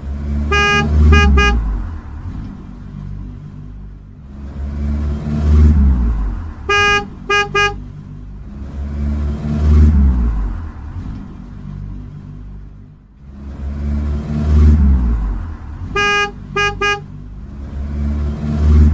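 Car engine surging up and down in waves, with a quick run of short horn toots that comes three times.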